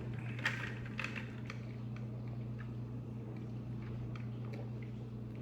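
A person eating: faint chewing and a few small clicks over a steady low hum.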